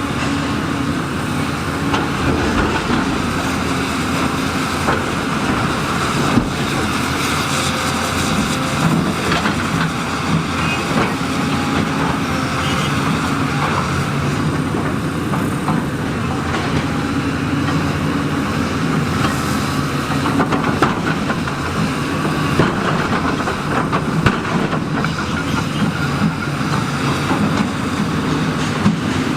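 Heavy diesel construction machinery running steadily under load, with scattered clanks and knocks.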